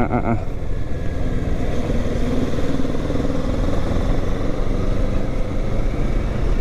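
Kawasaki Ninja 650's parallel-twin engine running steadily while the motorcycle is ridden, at an even pace with no sharp revving.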